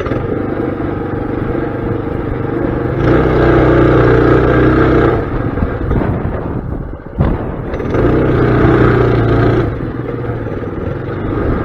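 Mini bike's small engine running under riding, opened up twice for about two seconds each and easing back between, with a brief sharp knock in the lull about seven seconds in.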